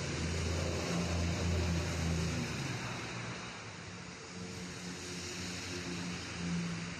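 Steady hiss of rain and wet traffic, with a vehicle engine humming underneath; the lowest part of the engine hum fades about two and a half seconds in.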